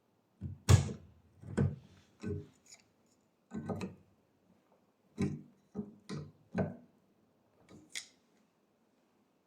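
A series of about ten irregular knocks and clicks, the loudest near the start.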